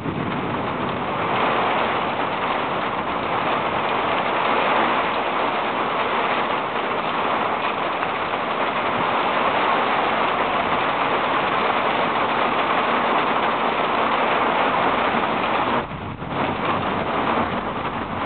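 Steady hiss of heavy rain in a storm, dipping briefly about sixteen seconds in.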